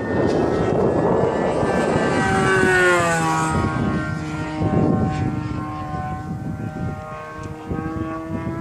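Model airplane's OS 120 AX two-stroke glow engine and propeller running in flight. Its pitch falls over about a second and a half, then holds steady and lower. There is rushing noise in the first couple of seconds.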